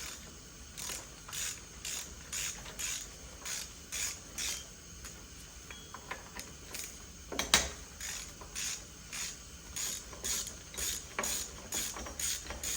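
Hand ratchet wrench clicking in short back-and-forth strokes, about two a second, undoing the power steering pump bolts on a Honda K20A engine. A single sharper knock about seven and a half seconds in.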